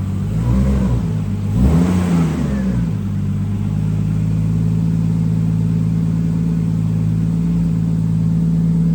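Freshly rebuilt Nissan Skyline RB straight-six engine blipped twice in the first three seconds, its pitch rising and falling each time, then settling to a steady idle.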